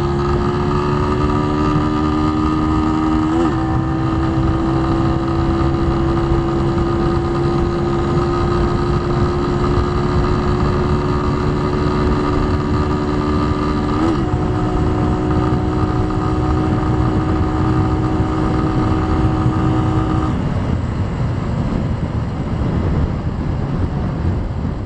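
Keeway Cafe Racer 152's single-cylinder engine pulling hard under full throttle on a top-speed run, its note climbing slowly, with a brief break about three seconds in and again about fourteen seconds in as gears are changed. About twenty seconds in the engine note drops away, leaving heavy wind and road noise on the microphone that fades near the end.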